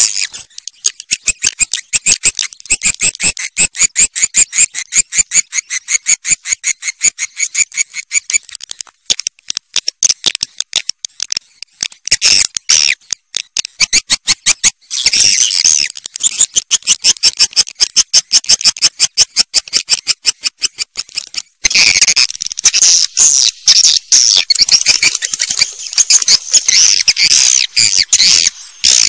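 Swiftlets calling: fast, high trains of sharp chirps and clicks, several a second, thickening into dense chattering near the middle and through the last third. It is a swiftlet call recording of the kind played to draw the birds into nesting houses.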